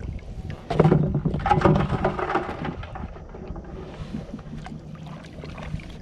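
Splashing water and scattered knocks and clunks of gear against a kayak, louder for a couple of seconds about a second in, then quieter.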